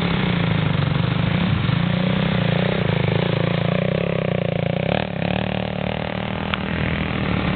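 Dirt bike engine running steadily as the bike climbs a grassy slope, with a short burst of noise about five seconds in and a sharp click near the end.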